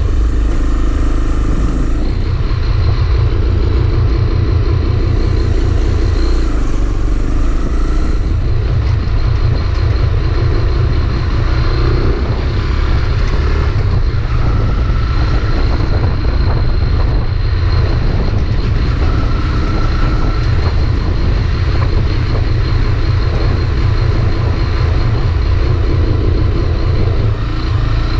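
Honda CB300R's single-cylinder engine running steadily with the bike stationary, making the strange noise its owner complains of; he says it keeps jerking and compares it to an old VW Beetle.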